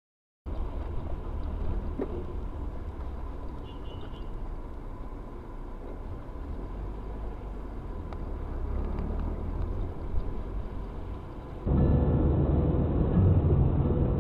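Car interior driving noise as picked up by a dashcam: a steady low rumble of engine and tyres on the road. About eleven seconds in, it cuts suddenly to a louder, duller recording of the same kind.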